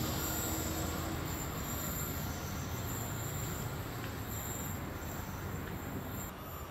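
A train running out of sight: a steady rumble that slowly fades.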